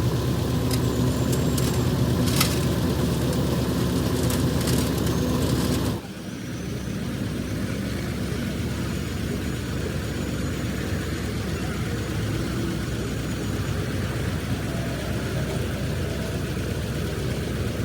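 Truck engine running steadily, with a few sharp clicks in the first few seconds. About six seconds in, the sound cuts abruptly to a quieter, duller engine sound.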